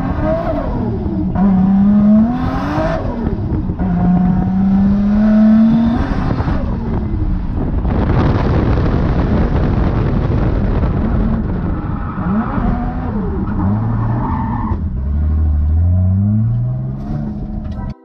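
Toyota Chaser JZX90's turbocharged straight-six revving hard, heard from inside the cabin: the engine pitch climbs and drops again and again as the car is driven through drifts, with a stretch of tyre noise in the middle. The sound cuts off suddenly near the end.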